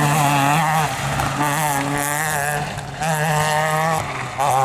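Rally car engine held at high revs on a gravel stage, its pitch fairly steady. The driver lifts off briefly about a second in and again near the end, then gets back on the throttle.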